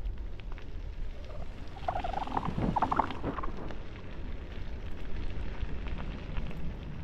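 Bicycle rolling downhill with a steady low rumble. About two seconds in, a brief wavering pitched sound rises over it for a second or so.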